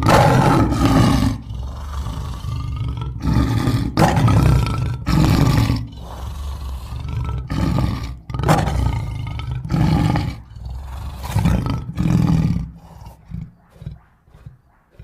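Bear roaring and growling sound effects: a run of loud, rough roars about a second long, one after another, tailing off into short, fainter grunts near the end.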